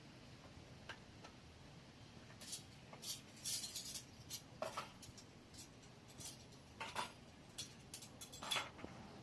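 Scattered light clinks and taps of utensils against dishes, a dozen or so irregular strikes over several seconds, the loudest near the end.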